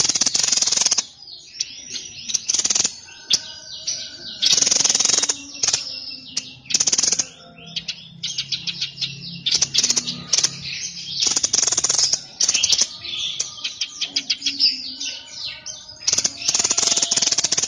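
A songbird of the kind Indonesian keepers call 'sniper', singing a fast, high chattering song without pause, broken every few seconds by loud rushes of rapid notes about a second long. It is in full, steady song ('gacor'), as recorded for training other birds.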